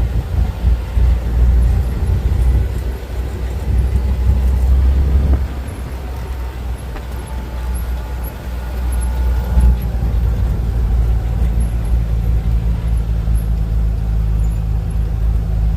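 Low, steady rumble of a vehicle in motion, easing off about five seconds in and then building again.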